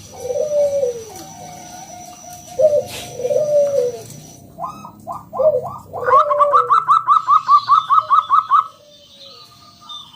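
Zebra dove (perkutut) singing loudly. It gives several low, warbling coo phrases, then from about halfway a run of quick, higher notes at about five a second, which stops shortly before the end.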